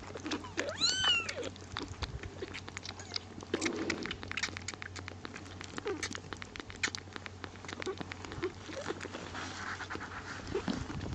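Kittens mewing: one high, arching mew about a second in, then a few fainter, lower mews, with many short clicks and smacks in between.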